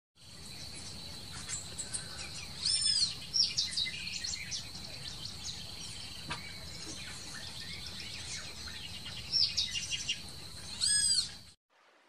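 Wild birds calling in forest: many short chirps over a steady high tone, with loud arched rising-and-falling calls about three seconds in and again near the end. The sound cuts off suddenly just before the end.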